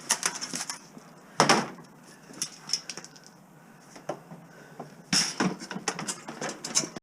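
Hard objects clattering and knocking as they are handled, with a string of small clicks and two louder knocks, one about a second and a half in and one about five seconds in.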